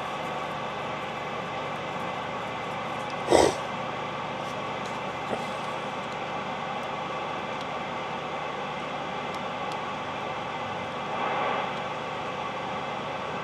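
Open-channel static hiss from a CB radio receiver while listening for a fading long-distance station, with one sharp crackle about three seconds in and a brief swell of noise near the end.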